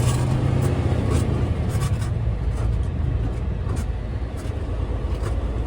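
Steady low rumble of a semi truck's diesel engine and road noise heard from inside the cab while driving slowly, with scattered light clicks and rattles.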